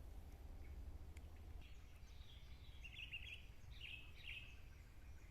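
Agitated alarm calls of a parent yellow-vented bulbul (trucuk) disturbed near its nest: faint clusters of short, scratchy chirps starting about two seconds in, over a low steady rumble.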